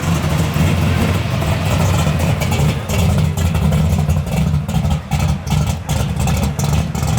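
Twin-turbo Lamborghini Huracán's V10 engine running deep and loud, with revs that briefly rise and fall and a scatter of sharp crackles. The owner's remark "sounds really nice" refers to this engine sound.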